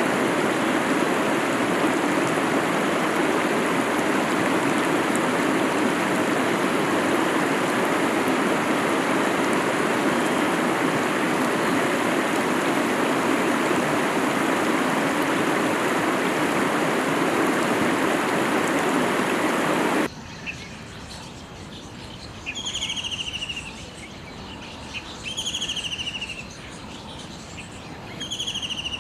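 Rushing water, a steady loud hiss, that cuts off abruptly about two-thirds of the way through; after it, a bird gives a short whistled call, repeated about every three seconds over a faint background.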